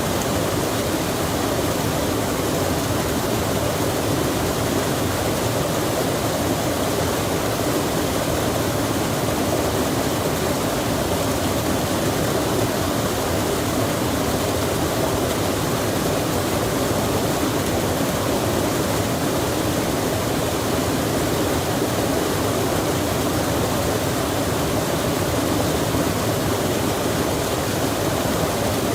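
Steady rushing of a flowing stream mixed with falling rain, an even, unbroken water noise with no single drops or splashes standing out.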